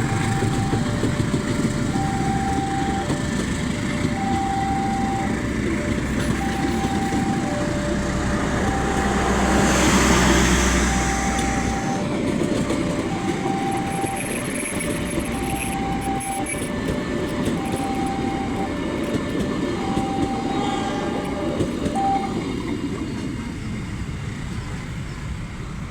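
A train running past with a continuous rumble and hiss that swells about ten seconds in. Over it, a two-tone warning alarm alternates a high and a low beep about once a second, typical of an Indonesian level crossing, and stops about 22 seconds in.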